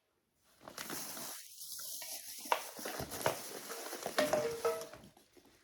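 Rustling and handling noise with a few small clicks and knocks as objects are picked up and moved. It begins about half a second in and fades out near the end.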